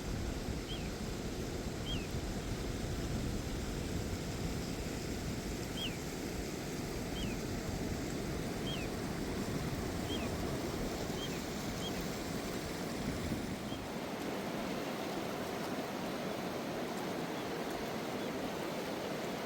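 Steady rushing of river water, with low wind rumble on the microphone that drops away about two-thirds of the way through. A bird repeats a short, high, falling chirp about once a second for the first dozen seconds.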